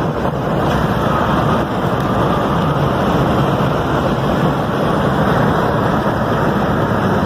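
Steady road and wind noise of a vehicle in motion: an even rushing hiss with no distinct events.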